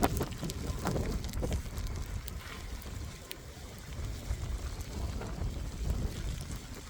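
Wind rumbling on the microphone in a blizzard, with scattered sharp ticks of ice pellets striking nearby surfaces.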